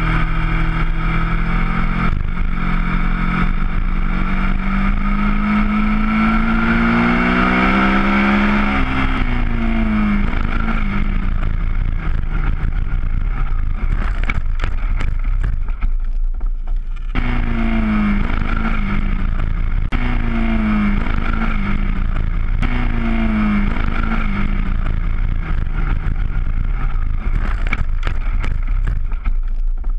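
Honda RC51's V-twin engine pulling hard under wind rush, its pitch climbing for several seconds and then dropping. After a few brief dropouts the engine keeps running on the riderless bike, its revs rising and falling in short surges about every second and a half as the bike runs on through grass.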